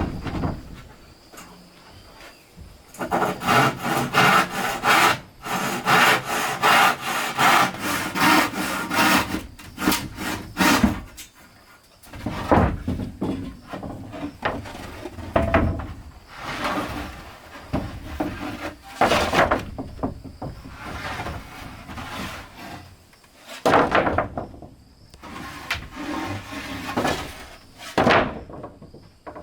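Wood being sawn by hand in quick, even back-and-forth strokes, followed by separate scrapes and knocks of wood being handled.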